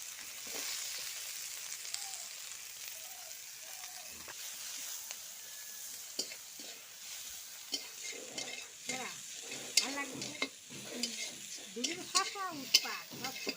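Onions sizzling as they fry in hot oil, with a spatula stirring and clicking against the pan more and more often from about six seconds in.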